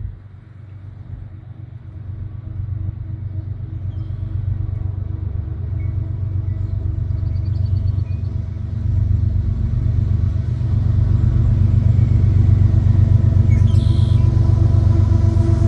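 Diesel locomotives at the head of a coal train approaching, a steady low engine drone growing louder throughout.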